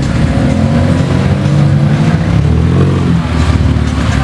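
Sports car engines running at low speed as the cars pull away, a deep exhaust note that rises and falls slightly in pitch.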